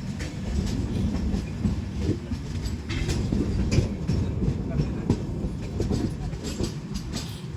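Passenger train's coaches rolling through the station, a steady low rumble with irregular clacks of the wheels over rail joints.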